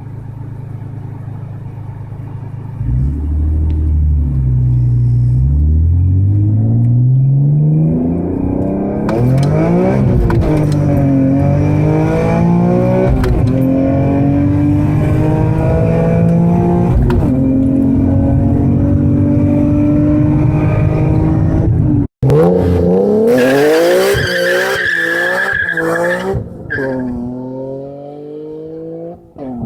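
Supercharged BMW E46 M3 straight-six with an aftermarket titanium exhaust, low at first and then revving and pulling hard, its pitch climbing and dropping again and again. After a sudden break about two-thirds of the way in it revs again with tyre squeal, as in a burnout.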